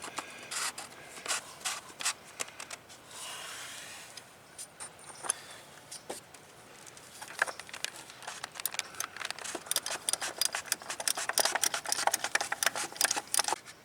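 Ratchet wrench clicking in quick runs as the oil filter cover bolts are run down and tightened, the clicks densest and loudest in the second half. A short scraping rub about three seconds in.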